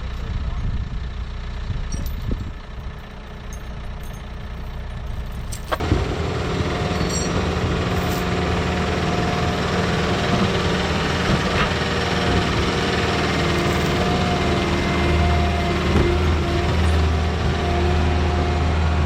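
Heavy diesel equipment running with a low rumble. About six seconds in there is a sharp knock, then the engine works harder, louder and fuller, with a steady whine over it.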